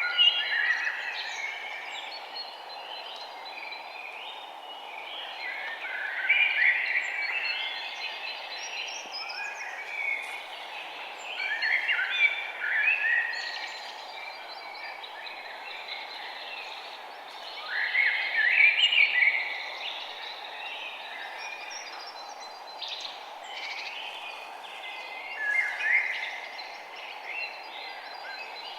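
Birds singing outdoors: a songbird repeats a short, loud, warbling phrase about every six seconds, while other birds chirp faintly in between, over a steady low background hiss.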